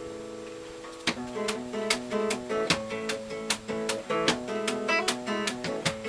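Acoustic guitar playing an instrumental passage of the song. A chord rings for about a second, then steady picked notes follow in an even rhythm.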